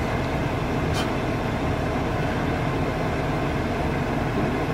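Steady low rumble of a car's running engine and cabin hum, heard from inside the car, with a faint steady tone and a single short tick about a second in.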